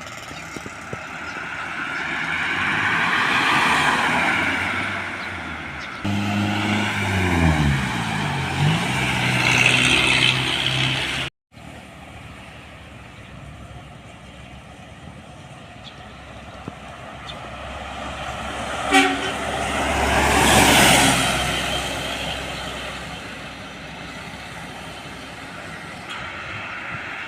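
Road traffic with heavy trucks passing close by one after another, each swelling and fading. One truck's engine note falls in pitch as it goes by. The sound cuts off abruptly about eleven seconds in, then another vehicle passes.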